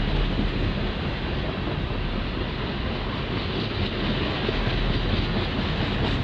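Covered grain hopper cars of a freight train rolling past, a steady noise of steel wheels running on the rails.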